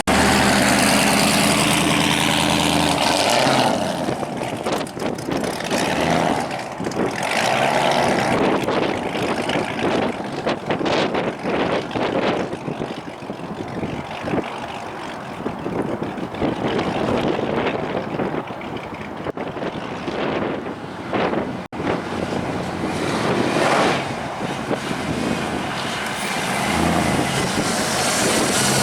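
AMC AMX's freshly swapped, supercharged 6.0 L Chevy LS V8 running, on its first short test drive. Strong gusting wind on the microphone covers much of the middle, with the engine steady and clear at the start and again near the end.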